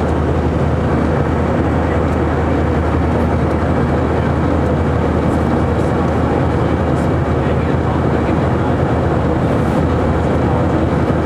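Steady cabin noise inside an Airbus A319 in flight: a constant low hum from the engines under a wide, even rush of airflow, unchanging throughout.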